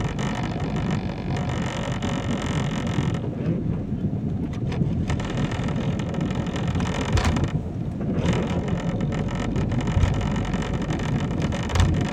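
Car being driven on a wet road in the rain, heard from inside the cabin: steady engine and road noise with a hiss of tyres on water that thins out twice.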